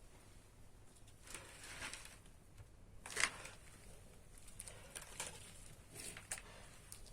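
Chinese painted quail in a coop, faint intermittent scratching and rustling in short bursts, the loudest about three seconds in.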